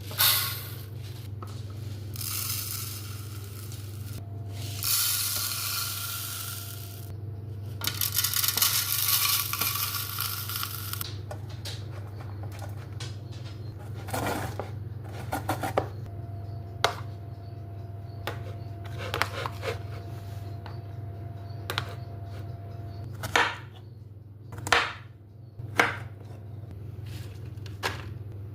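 Kitchen utensils and dishes clinking and scraping as egg food for birds is prepared, with several seconds of rough scraping noise early on and scattered sharp knocks later, over a steady low hum.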